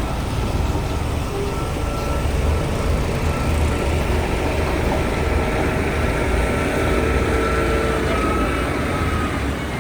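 Heavy diesel earthmoving machinery running steadily under load, a deep low rumble with a faint high whine over it.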